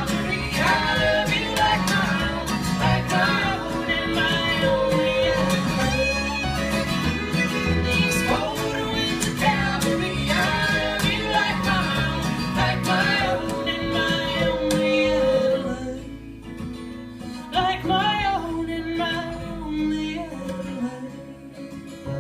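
Acoustic string band playing an instrumental break on fiddle and guitar in a country/bluegrass style; the playing drops to a quieter, sparser passage about three-quarters of the way through.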